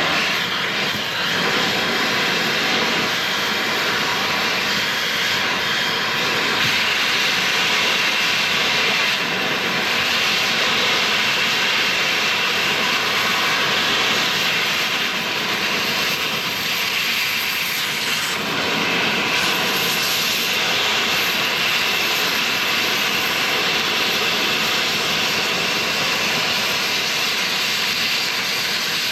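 Cutting torch burning through a bulldozer track-chain link and bushing: a steady, even hiss that holds without a break.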